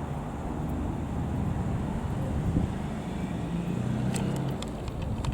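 Four-cylinder piston engine of a Piper PA-28-180 Cherokee light aircraft droning as it passes, its pitch wavering slightly.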